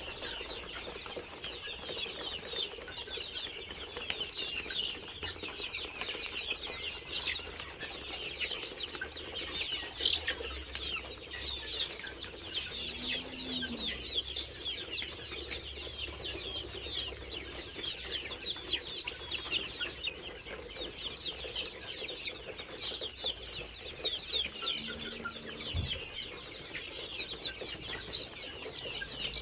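A crowded flock of chickens calling together: a steady, dense chorus of overlapping high-pitched cheeps and clucks.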